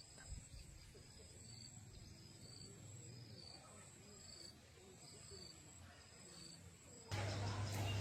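Faint insects chirping: a steady high trill with short, high chirps repeating about twice a second. About seven seconds in, a louder low hum and noise abruptly take over.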